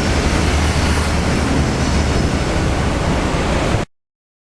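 Intercity passenger train running through a station at speed: a loud, steady rushing noise with a deep rumble and wind buffeting the microphone. The sound cuts off abruptly to silence about four seconds in.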